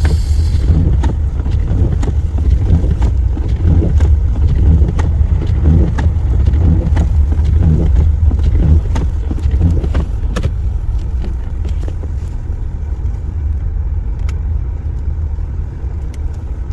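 Car driving slowly over snow and slush: a steady low rumble of engine and tyres, with scattered sharp clicks, easing a little about ten seconds in.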